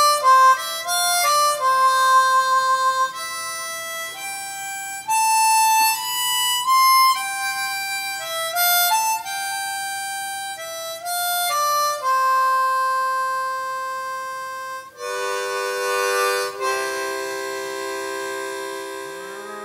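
Harmonica music: a melody of quick single notes, then long held chords near the end that fade out.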